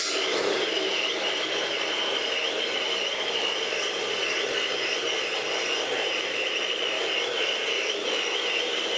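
Procharger-supercharged Ford 408 Windsor stroker V8 crate engine, freshly started, running steadily at an even idle with no revving.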